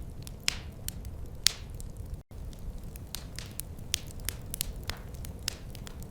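Wood fire crackling in a fireplace: irregular sharp pops and snaps over a low steady rumble of the flames. The sound cuts out for an instant a little after two seconds.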